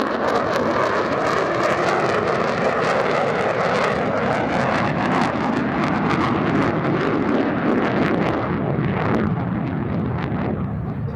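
Loud jet noise from an F-35A Lightning II's single afterburning turbofan as the jet flies its display, with a crackling edge. The pitch slides down over the first few seconds, and the noise eases slightly near the end.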